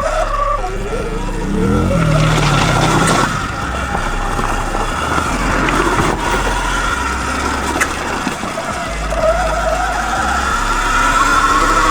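Dirt bike engine running under way while being ridden, with wind rumbling on the microphone; the engine pitch rises about nine seconds in as the throttle opens.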